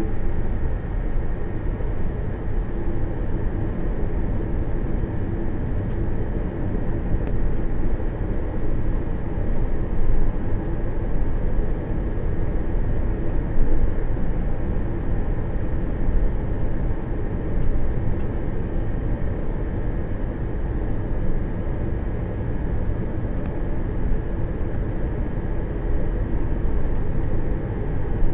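Cabin noise inside an Airbus A340-300: its four CFM56 turbofan engines and the airframe give a steady, loud rumble with a faint constant whine above it.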